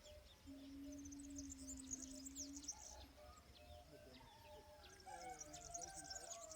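Faint birdsong: many small birds chirping throughout, with lower wavering calls in the second half. A low steady hum runs for about two seconds near the start.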